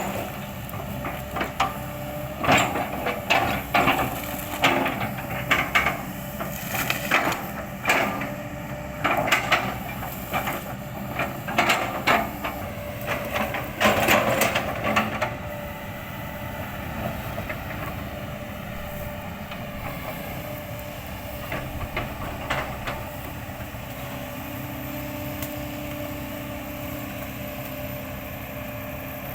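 Kobelco excavator bucket chopping and crushing an oil palm trunk into chips, a rapid run of cracking, splintering knocks over the excavator's running diesel engine. About halfway through the chopping stops and the engine runs on steadily with an occasional knock.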